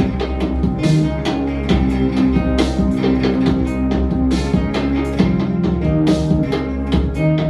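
Instrumental band music led by guitars, with sustained low notes and a steady beat, no singing.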